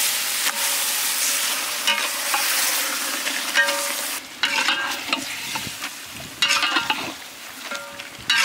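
Whole chickens frying in hot oil and masala in a large metal pot, sizzling most strongly in the first few seconds. A long metal ladle stirs them, scraping and clanking against the pot several times.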